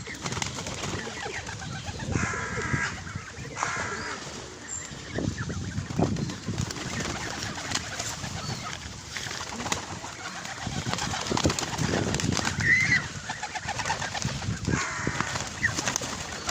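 Birds calling at close range, in short runs of calls about two, four and fifteen seconds in, among scattered knocks and rustles.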